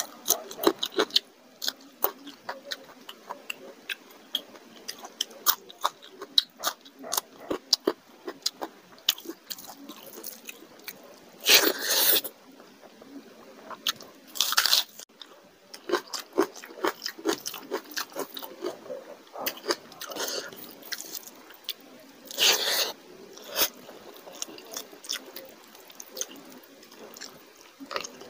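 Close-miked chewing and biting of chicken curry and rice eaten by hand, starting with a crunching bite of raw green chilli. There are many wet mouth clicks and smacks, and a few louder, longer mouth noises.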